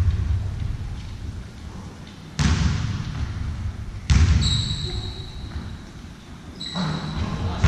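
Ball game play in an echoing sports hall: a ball thudding on the floor with two sudden loud knocks, about two and a half and four seconds in. Two short high-pitched tones sound, one after the second knock and one near the end.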